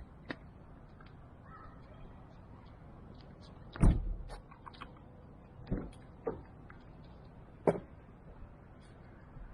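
A few sharp knocks and clunks over a faint steady low hum: a deep thump about four seconds in is the loudest, followed by three lighter knocks over the next four seconds.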